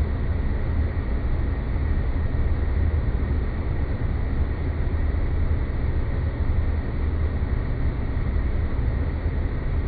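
Space-planet ambience sound effect: a steady noise drone with a deep rumble underneath and a faint high steady tone, unchanging throughout.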